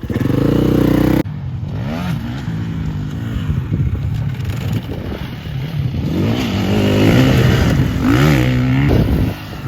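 Motocross bike engine revving hard and dropping back again and again as it is ridden around the track, its pitch rising and falling. About a second in, a steady high engine note breaks off abruptly.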